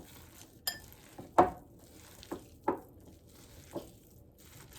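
Grated-vegetable Manchurian mixture being mixed in a bowl, with about six irregular knocks and clatters against the bowl, the loudest about one and a half seconds in.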